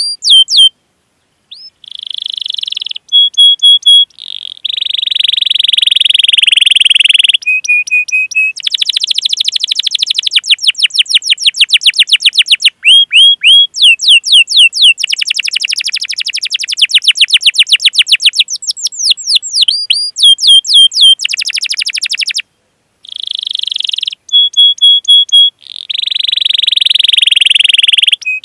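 Domestic canary singing: long runs of fast, sweeping 'cuit cuit' chirps alternating with buzzy rolls and short trills. There are two brief pauses, and the sequence starts over after the second one, near the end.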